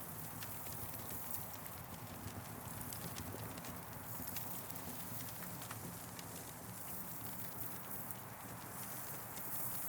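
Campfire burning, with irregular sharp crackles and pops over a steady hiss.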